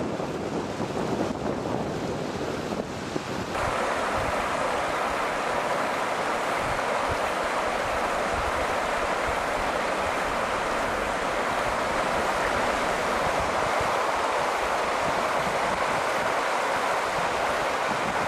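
Steady rush of river water over rapids, a continuous hiss-like roar that grows louder and brighter about three and a half seconds in.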